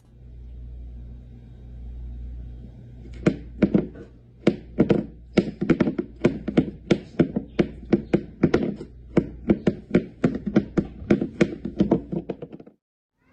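Repeated knocking or thumping, about three dull knocks a second and unevenly spaced, starting about three seconds in over a low hum and stopping shortly before the end; the room sounds small.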